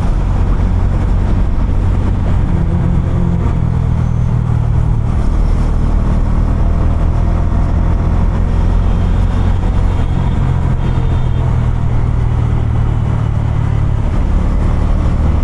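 Bajaj Dominar 250's single-cylinder engine and exhaust running steadily while riding at road speed. The engine note shifts up and down a little a few times as the throttle changes.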